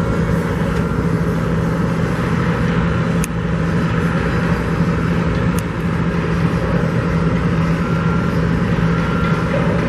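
Steady low engine drone of heavy machinery or traffic at a construction site, with a constant hum and no breaks.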